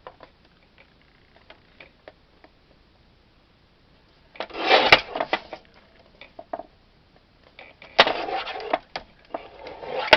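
Card stock being handled on a craft table: a few light clicks, then two short bursts of paper rustling and scraping, about four seconds in and again near the end.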